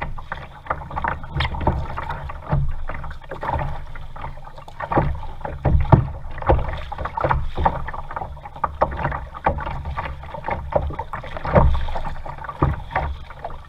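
Water splashing and lapping around a kayak, with irregular short splashes and knocks over a low rumble.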